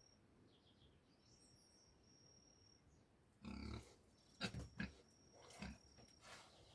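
Short low animal grunts, about five in a cluster in the second half, faint overall. A thin, high, steady whistle-like tone comes and goes behind them.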